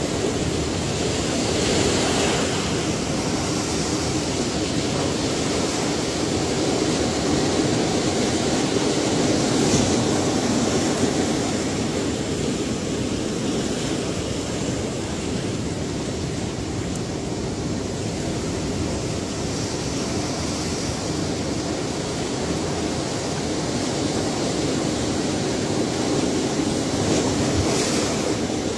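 Ocean waves breaking and washing in a continuous rush of surf, swelling slightly now and then.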